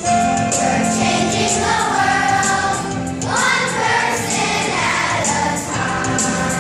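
Music with a choir singing over a steady accompaniment.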